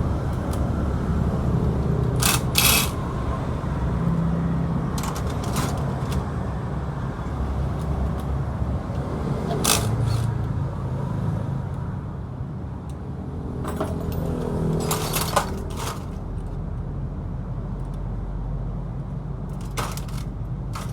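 A motorcycle engine running steadily at low speed. Sharp metallic clinks, like tools being set down or handled, come now and then, about eight in all.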